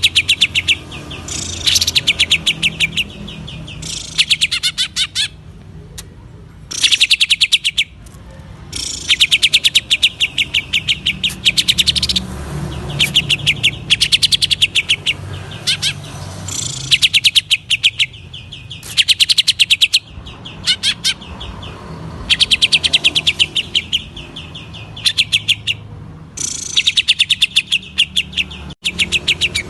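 Green leafbird (cucak ijo) singing vigorously: repeated bursts of rapid, sharp, high chattering notes, each burst lasting about a second, with short pauses between them. A faint low hum runs underneath.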